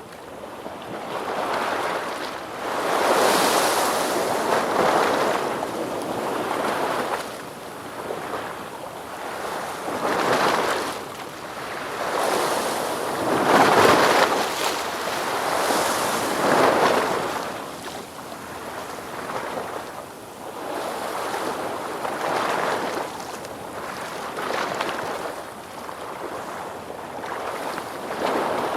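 Ocean waves breaking and washing in, swelling and falling away every few seconds in a steady rolling surf.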